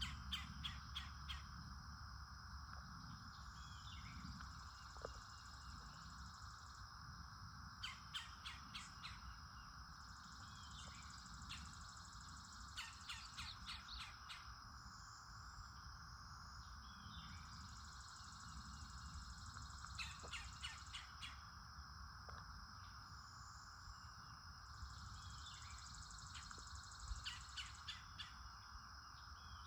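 Wild birds calling faintly in short runs of quick sharp notes, a run every several seconds, over a steady drone of insects.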